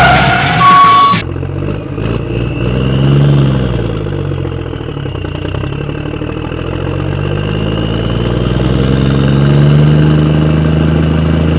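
A truck engine running and revving: its pitch rises about three seconds in, falls back, and climbs again near the end. A short electronic tone sounds in the first second.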